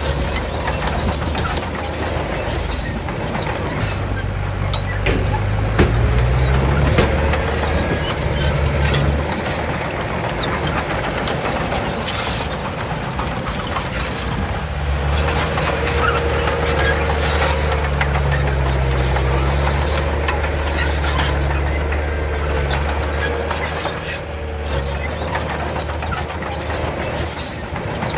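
Komatsu D31 crawler bulldozer working: its diesel engine runs with the note shifting up and down, while the steel tracks clank and squeal.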